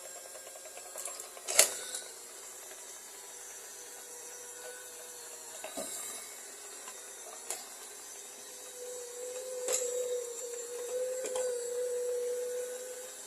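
Small motor of a mini robot vacuum cleaner running with a steady whine that grows louder near the end, broken by a sharp click about a second and a half in and a few lighter knocks.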